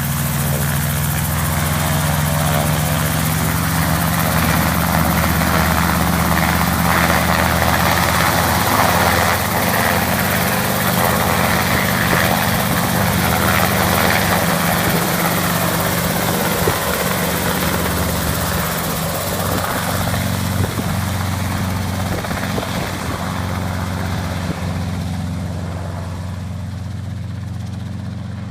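Helicopter taking off, its engine and rotor loud and steady, growing fainter in the last few seconds as it moves away.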